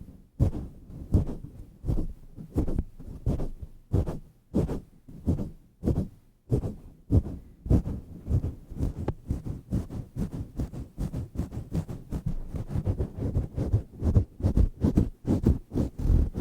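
Hands pumping and rubbing a cover on a microphone right at the capsule: deep, muffled thumps in an uneven rhythm, about two a second at first, quickening to three or four a second in the second half.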